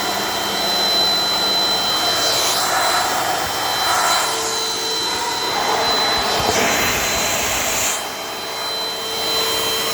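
Dirt Devil Dynamite Plus vacuum cleaner running with a steady high motor whine, its rushing airflow rising and changing as the nozzle is worked. About eight seconds in, the rush drops away briefly before it picks up again.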